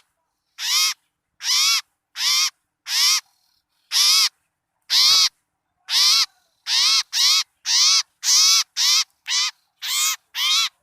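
Bird-lure (pikat) recording of harsh, agitated bird calls meant to draw in small birds. Each call rises and falls in pitch, repeated about once a second at first and closer together, nearly twice a second, in the second half.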